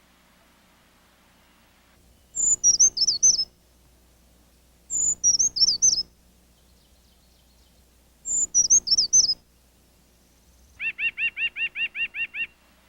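Backyard songbirds singing: three short, high, quick phrases a few seconds apart, then near the end a run of about ten evenly repeated lower notes.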